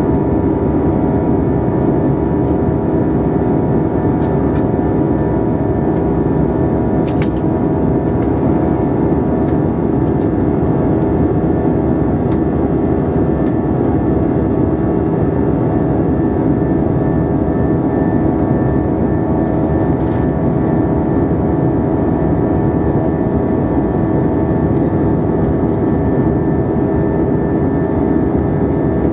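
Steady engine and airflow noise inside the cabin of an Airbus A320 in flight, with a constant engine hum, and a few faint clicks.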